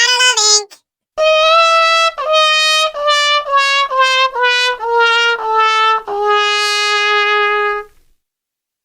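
A trumpet-like brass tune: a quick run of notes falling in pitch, a short pause, then a longer series of notes stepping downward that ends on one long low note held for nearly two seconds.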